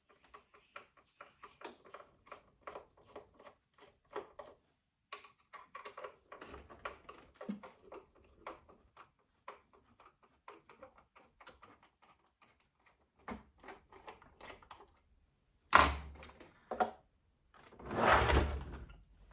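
Hands working on a coffee machine's plastic and metal parts: a run of small clicks and taps, a loud knock about sixteen seconds in and a smaller one a second later, then a rough scraping sound lasting about a second near the end.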